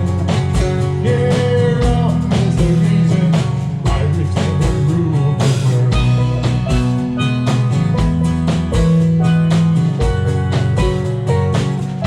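Live band music: electric guitar, bass and steel drums over a drum kit keeping a steady beat with a kick drum about twice a second.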